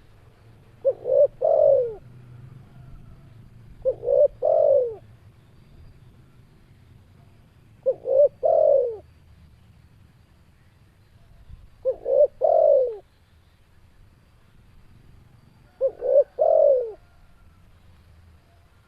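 Spotted dove (tekukur) cooing its three-note call, a short note followed by two longer falling coos. The call repeats five times, about every four seconds.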